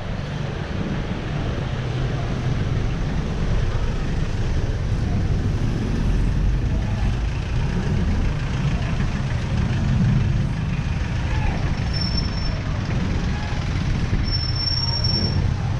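Wind rushing over a helmet-mounted action camera on a moving ride, mixed with road and traffic noise, steady throughout. A brief high squeal cuts through about twelve seconds in and again near the end.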